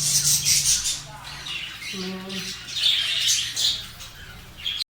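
Budgerigars squawking and chattering in an aviary colony: repeated harsh, high-pitched calls coming in bursts.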